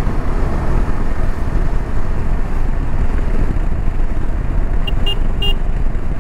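Motorcycle riding along a road, engine and wind rush on the bike's microphone making a steady, loud rumble. Three short high beeps sound about five seconds in.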